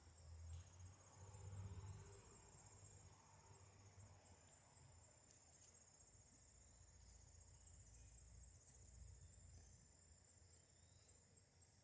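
Crickets chirping faintly in a steady, pulsing high trill, with a low rumble underneath that is strongest in the first two seconds.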